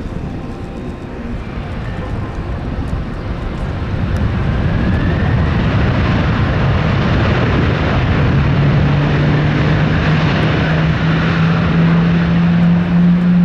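Jet airliner's engines running, growing steadily louder as it comes closer, with a low hum that comes in about two-thirds of the way through and rises slightly in pitch.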